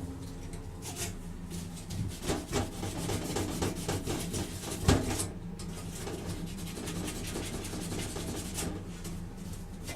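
Crumpled aluminum foil wet with Coca-Cola being rubbed back and forth on a chrome exhaust pipe, a continuous scratchy scrubbing that lifts surface rust off the chrome. A sharper knock about five seconds in.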